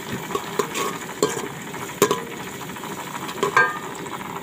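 Onions, garlic and green chillies with turmeric sizzling in hot oil in a metal pot, stirred with a perforated steel spoon that scrapes and knocks against the pot. The sharpest knocks come about two seconds in and again near the end.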